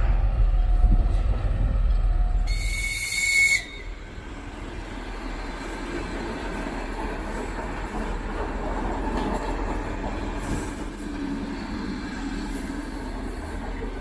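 A twin-section M62-family diesel locomotive rumbles past at the head of a freight train, and a high horn note sounds for about a second. The sound then drops suddenly to the quieter rolling of a Latvian electric multiple unit passing: wheel and track noise with some clickety-clack.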